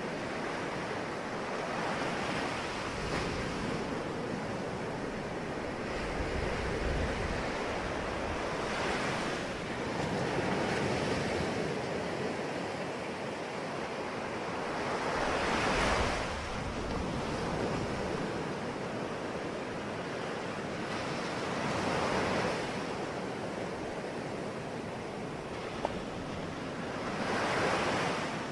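Sea waves breaking and washing on the shore, each surge swelling and fading about every six seconds. The loudest surge comes about halfway through.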